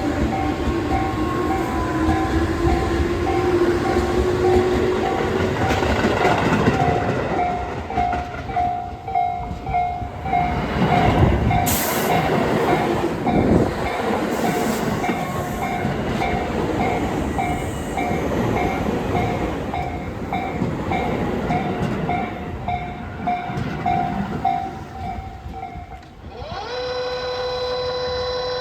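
Tobu 8000-series electric train running through the station, with wheels clattering over rail joints and a rising motor tone as it moves off. A pulsed tone repeats throughout and stops a couple of seconds before the end, and a steady pitched tone with overtones follows.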